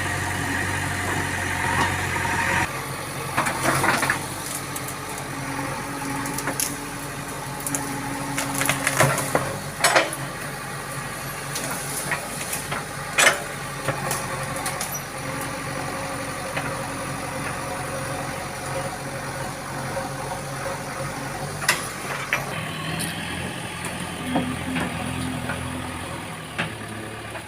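Heavy diesel engine running at idle, with a few sharp knocks and clanks.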